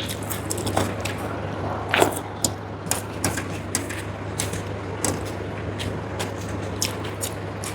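Close-miked eating sounds: chewing and mouth clicks coming irregularly, a few times a second, with a louder one about two seconds in, over a steady low hum.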